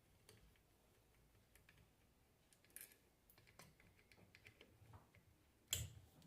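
Faint, scattered clicks and taps of small metal parts and tools being handled while an alternator is taken apart, with one sharper knock near the end.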